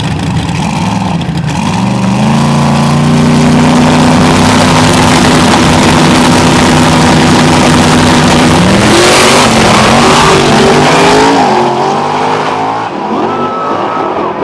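Drag race cars making a pass at full throttle. The engine note holds steady for several seconds, climbs and changes pitch about nine seconds in, then eases off near the end.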